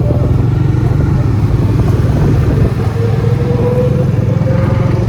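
Motorcycle engine running steadily, heard up close, with a faint tone rising slowly over the last two seconds.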